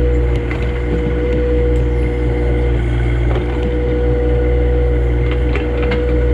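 Compact John Deere tractor's engine running steadily under working load, its pitch dipping briefly about halfway through, with a few faint snaps or clicks over it.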